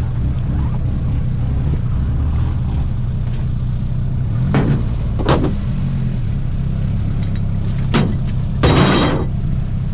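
A vehicle engine running steadily at idle, with a few sharp knocks about halfway through and near the end, and a brief rushing noise just before the end.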